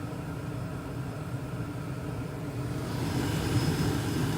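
2001 Carrier gas furnace running with its front panel on: a steady rumble of burner and blower with a high hiss. It grows somewhat louder and brighter about three seconds in.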